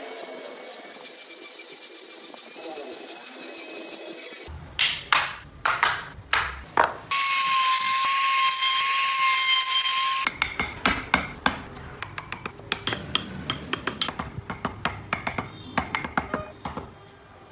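Woodworking tools at work on a wooden carving. There is a run of sharp knocks and scrapes, then a small power tool whines steadily for about three seconds. After that come many quick clicks and scrapes of hand tools on wood.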